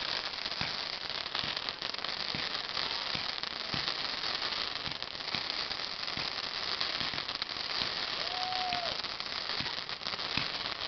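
A lit firework burning with a steady hiss and irregular crackling pops. A brief rising-and-falling whistle sounds about eight seconds in.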